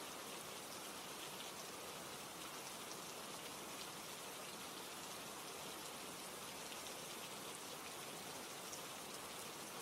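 Steady rain falling, with soft scattered crackles of a fireplace underneath.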